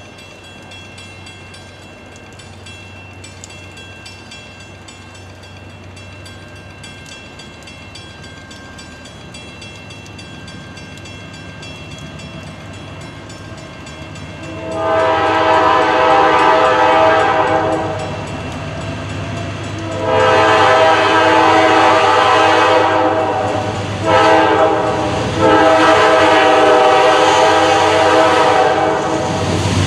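Freight diesel locomotive horn sounding the grade-crossing signal: two long blasts, a short one and a final long one, the standard warning for a train approaching a road crossing. The faint rumble of the approaching train grows slowly louder before the first blast.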